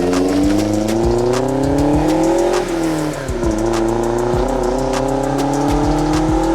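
Turbocharged 1991 Mazda Miata's four-cylinder engine accelerating: the pitch climbs, drops sharply at a gear change about two and a half seconds in, then climbs again more slowly. Music with a beat plays underneath.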